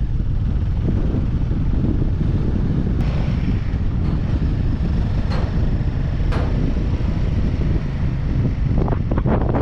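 Wind rushing over the microphone of a camera riding on a moving motorcycle: a steady low rumble, with a few brief knocks around the middle.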